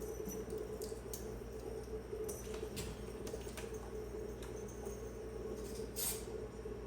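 Cats' claws scratching and tapping on a cat tree: scattered light scrapes and clicks, with a louder scrape about six seconds in, over a steady hum.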